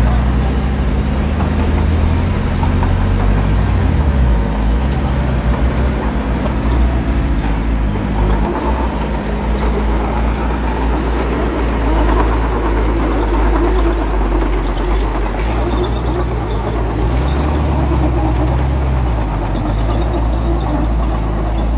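Small bulldozer's diesel engine working steadily, its pitch shifting up and down several times as the load changes.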